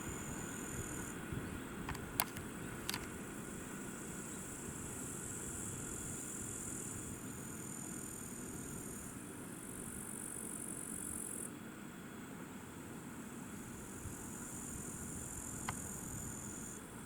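Steady low rumble of a passenger train rolling along the track, fainter than its loudest pass, with a high, steady insect chirring above it. A few sharp clicks come about two and three seconds in, and one more near the end.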